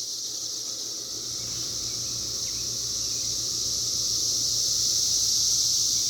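A large chorus of cicadas buzzing as one steady, high-pitched drone that swells slightly over a few seconds.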